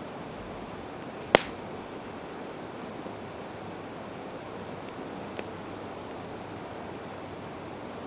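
Campfire of split evergreen wood burning with a steady hiss, one sharp pop about a second in and a fainter snap near the middle. A high chirping, like a cricket's, repeats about twice a second from about a second in.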